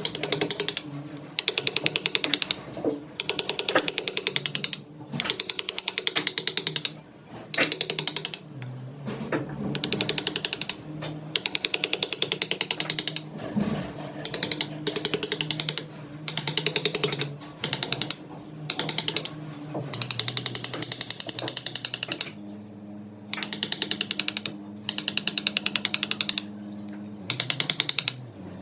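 Wood lathe running with a turning tool cutting the spinning redwood in repeated short passes. Each pass is a fast rattle of clicks over the steady hum of the lathe.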